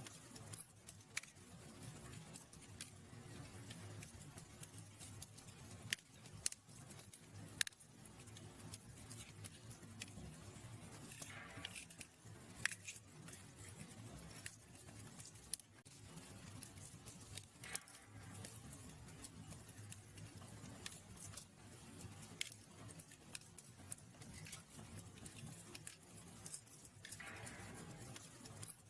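Wood fire crackling in a fireplace: scattered sharp pops and snaps over a soft low rumble, with a gentle hiss swelling up a few times.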